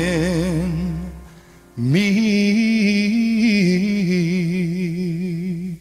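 Pop song with a male voice holding the last note of the line with a wavering vibrato, fading out about a second in. After a short pause a second long vibrato note is held over a sparse backing, before the band comes back in.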